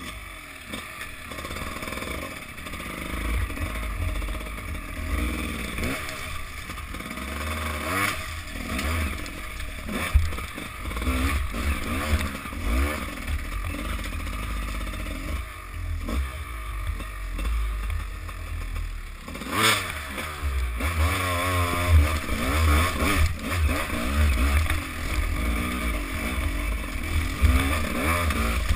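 Enduro dirt bike engine revving up and down over and over as it is ridden slowly over rough, rocky ground. Beneath it is a heavy low rumble of wind buffeting the microphone, with occasional knocks and clatter from the bike over rocks, the sharpest just before two-thirds of the way through.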